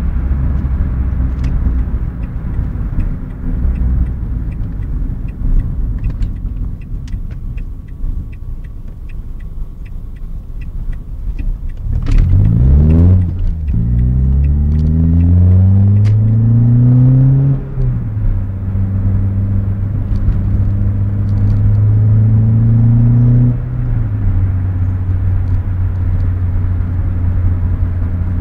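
Renault Clio RS 172's 2.0-litre four-cylinder engine heard from inside the cabin. It runs low and steady, then about halfway through revs hard with a rising pitch through two gear changes. It then holds a steady, higher drone before easing off to a lower note near the end.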